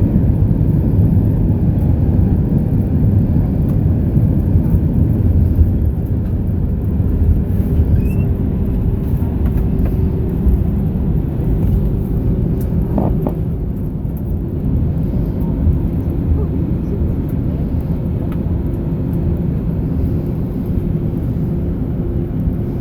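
Airbus A319 heard from inside the cabin after landing: a steady low rumble of engines, airframe and wheels that slowly eases as the jet slows on the ground. A faint steady hum runs through it.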